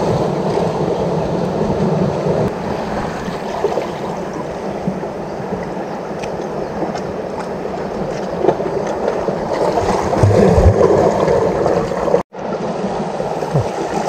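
Seawater washing and gurgling against the rocks of the shore, a steady rushing noise with a few faint knocks, cutting out for an instant near the end.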